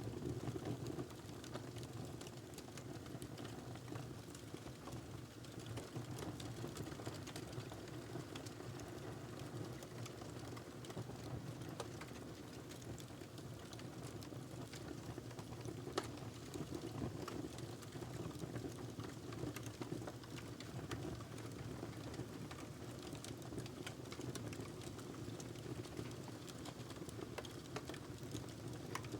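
Wood fire crackling steadily: a low rumble of flame under a constant scatter of small crackles and pops, one sharper pop about halfway through.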